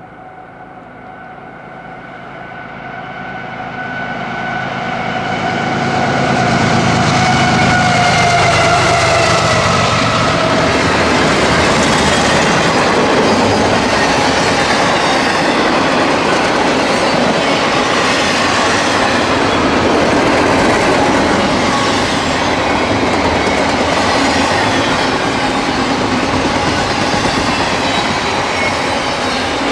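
CSX I-168 intermodal freight train, autoracks and double-stack container cars, rolling past: a steady rumble and rattle of wheels and cars on the rails. It builds over the first six seconds and then holds. A long drawn-out tone sinks slowly in pitch through the first ten seconds.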